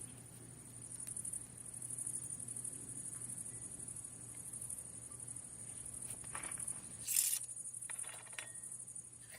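Insects trilling steadily in a high continuous band over a faint low hum. Several short clinks and knocks come through in the last few seconds.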